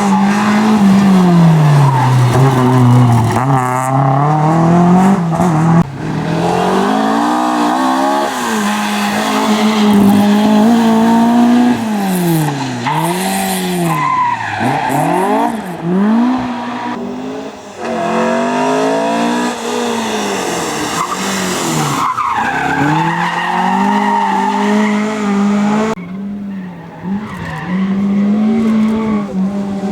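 Rally car engine revving hard under acceleration, its pitch climbing and dropping again and again through gear changes and lifts, with a run of quick rev swoops about halfway through.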